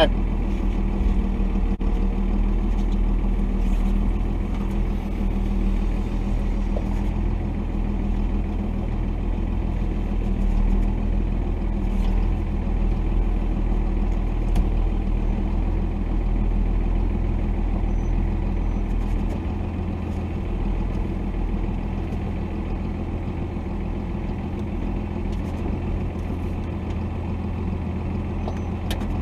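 Cummins diesel engine of a 1990 Dodge D250 pickup running steadily at low revs, with a few faint clicks and knocks over it.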